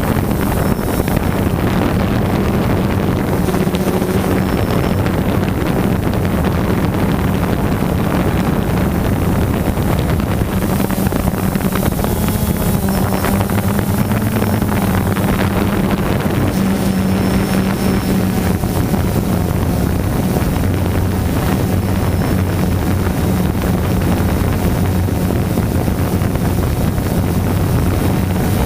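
DJI Phantom quadcopter's electric motors and propellers buzzing steadily in flight, heard through the GoPro mounted on it, with wind rushing over the microphone. The hum shifts slightly in pitch around the middle.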